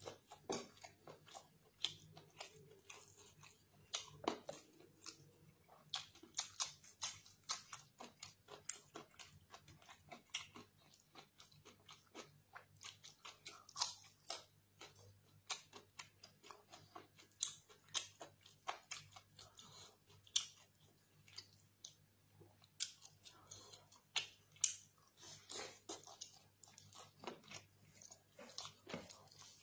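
A man chewing chicken curry and rice, eaten by hand: a dense, irregular run of short mouth clicks and chewing noises.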